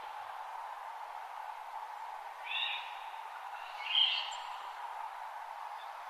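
Wild birds calling in a forest dawn ambience: two short call phrases, about a second and a half apart, over a steady background hiss.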